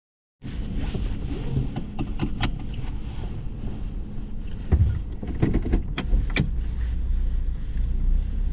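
Truck cabin noise while driving: a steady low rumble of engine and road, with scattered light knocks and rattles. It starts abruptly about half a second in.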